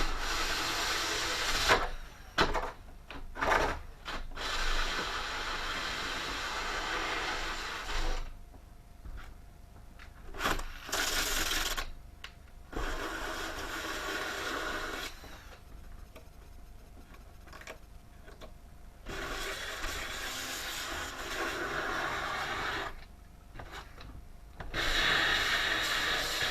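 A power tool running in bursts of a few seconds, switched on and off with short pauses between, with a few sharp knocks in the first few seconds.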